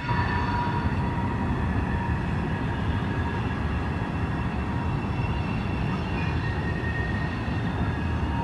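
Freight train rolling by: a steady low rumble of cars on the rails with faint steady high-pitched tones from the wheels, and wind buffeting the microphone.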